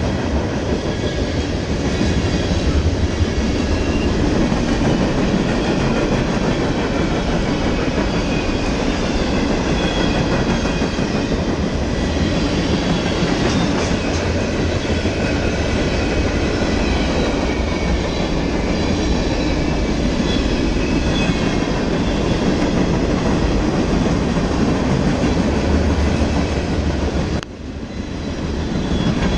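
Freight train rolling past, a steady rumble of wheels on rail with clickety-clack and a faint squeal of wheels. The level drops suddenly and briefly near the end.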